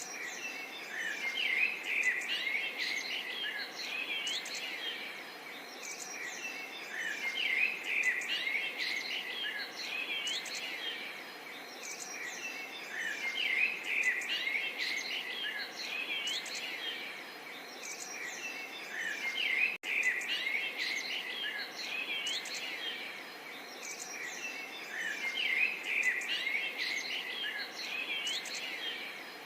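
Songbird chorus: many birds chirping and twittering at once, swelling and easing every few seconds over a steady background hiss. The sound briefly cuts out for a split second about two-thirds of the way through.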